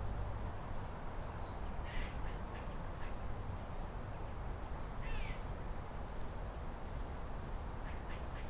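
Birds calling outdoors: scattered short, high chirps and a couple of harsher calls about two and five seconds in, over a steady low rumble.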